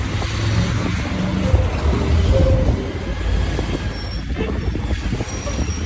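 Motorcycle riding on a road: the engine running steadily under a low rumble of wind and road noise, with other traffic around.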